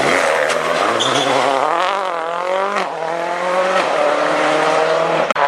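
Rally car engine at full throttle on a stage. The pitch climbs, drops sharply about halfway through as the driver shifts or lifts, and then holds steady.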